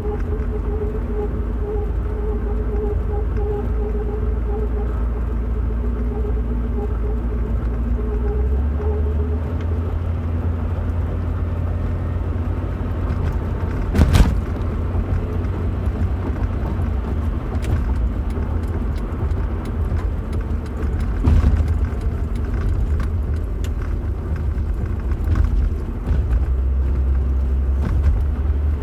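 Steady low rumble of a vehicle in motion, heard from inside. A steady hum sounds through the first third and then fades out. About halfway through comes one sharp knock, and a few lighter knocks follow later on.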